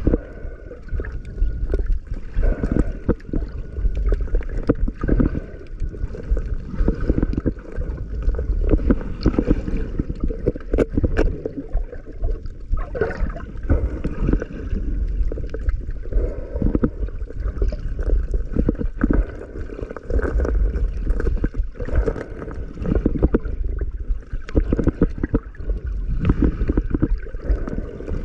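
Underwater water noise: muffled, bass-heavy sloshing and bubbling with irregular crackles throughout, as picked up by a camera in a waterproof housing in the sea.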